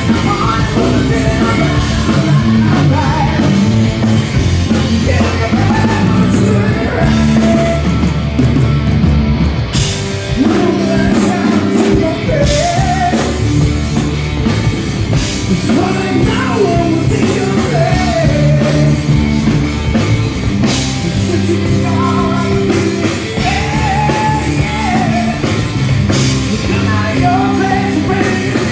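Live hard rock band playing loud, with electric guitar, bass and drums, and a lead line that slides up and down in pitch.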